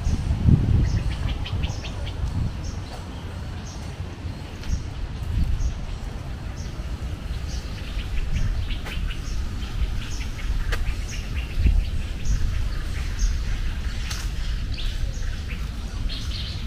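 Outdoor birdsong: a short high note repeats about twice a second, with other birds chirping now and then, over a steady low rumble.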